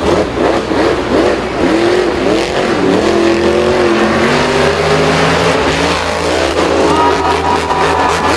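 Engine revving hard, its pitch rising and falling again and again over a steady low rumble.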